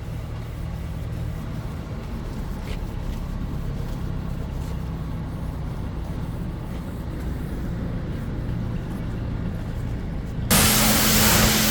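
Steady low mechanical rumble, then about ten and a half seconds in a pressure washer starts spraying: a sudden loud hiss of water jet over a steady pump hum.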